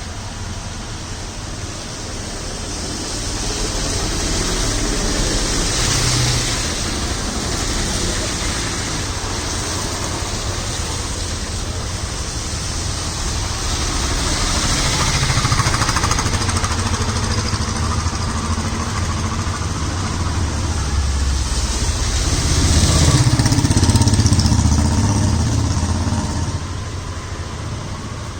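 Road traffic passing on a wet road in the rain: a steady hiss of tyres and rain, with vehicles swelling past about three times, the last and loudest with a heavier engine rumble near the end.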